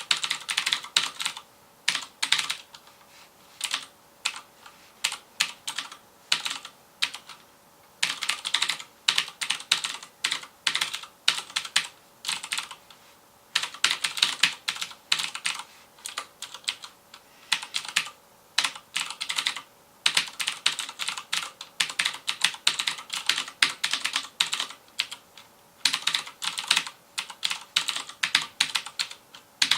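FILCO Majestouch Convertible 2 mechanical keyboard with clicky Cherry MX Blue switches being typed on: fast runs of sharp key clicks in bursts, broken by short pauses.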